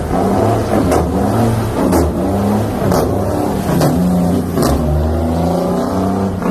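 Heavy 18-wheel dump truck's engine running and revving, its pitch rising and falling, with a sharp tick about once a second.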